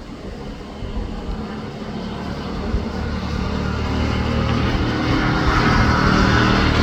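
A motor vehicle's engine running and growing steadily louder as it approaches, with a rising rush of noise that swells toward the end.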